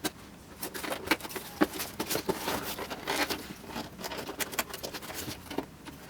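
Packaging being handled and unwrapped by hand: a stream of irregular rustles, crinkles and small clicks that thins out near the end.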